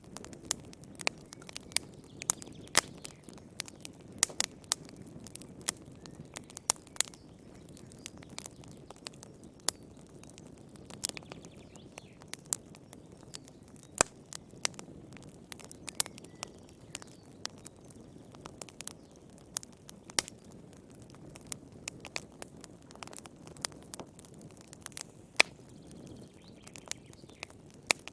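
Campfire burning, with sharp, irregular wood crackles and pops over a low, steady rush of flame.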